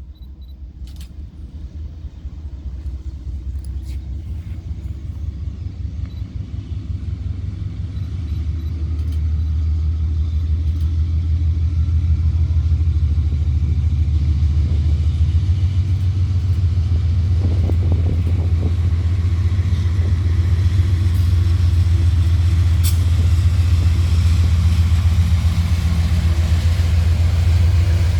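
Deep engine rumble of an approaching GE BB40-9WM (Dash 9) diesel-electric locomotive, growing steadily louder for about ten seconds and then holding at full strength as it draws near.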